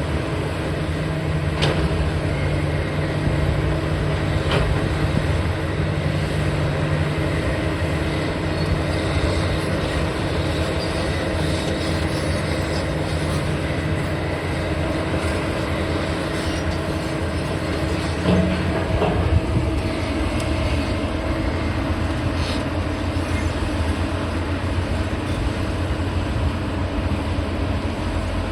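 Heavy diesel machinery running steadily with a constant low drone, broken by a few brief knocks, two of them somewhat louder a little past the middle.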